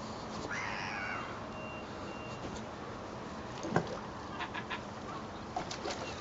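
Gulls calling: one drawn-out call falling in pitch near the start, then several short sharp calls later on. A vehicle's reversing beeper sounds behind them, and a single sharp knock, the loudest sound, comes about four seconds in.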